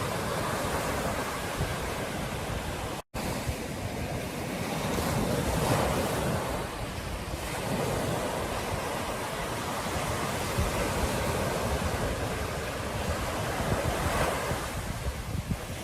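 Ocean surf breaking on a beach, a steady wash that swells and eases, with wind on the microphone. The sound cuts out completely for a split second about three seconds in.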